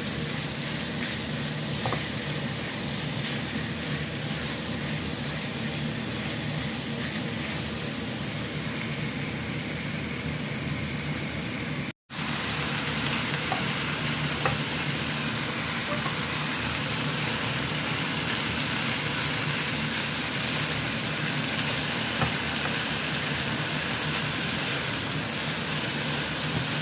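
Bite-size chicken breast pieces sizzling as they sauté in a pan, a steady frying hiss while they brown. The sound cuts out for an instant about halfway through, then carries on slightly louder.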